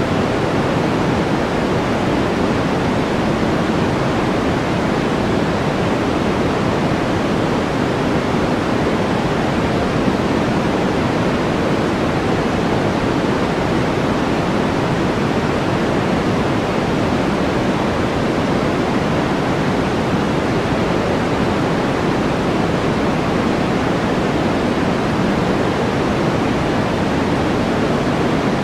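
Steady white-noise track: an even, unchanging hiss, fuller in the low-middle range than at the top.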